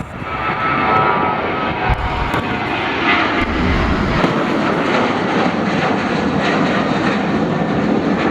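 Boeing 737-800 departing under jet power: its two CFM56-7B turbofans running loud and steady at high thrust, with a whine in the noise. The sound swells up in the first second and then holds.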